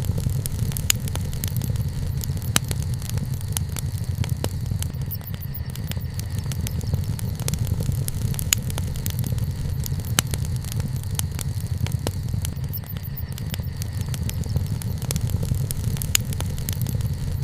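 Wood fire crackling, with frequent sharp pops at irregular intervals over a steady low rumble.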